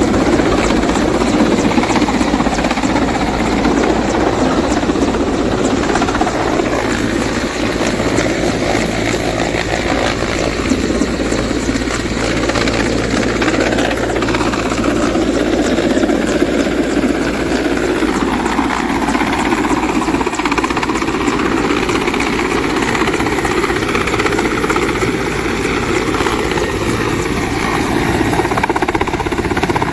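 Helicopter running close by, its rotor and engine making a loud, steady noise throughout.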